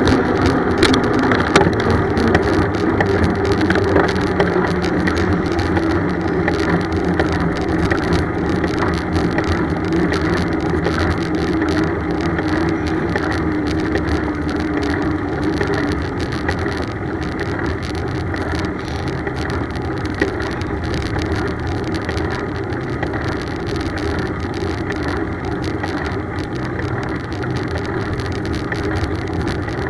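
Steady road noise from riding a bicycle: a dense, even rumble with a faint hum running through it.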